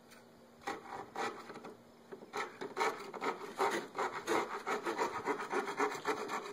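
Hand saw cutting through plywood: a few hesitant strokes, then from about two seconds in a steady back-and-forth sawing rhythm of about three strokes a second.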